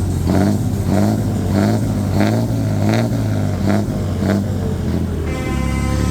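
Heavy truck engine rumbling low and steady as parade trucks roll by, with rhythmic music playing over it. About five seconds in, a sustained many-toned sound sets in.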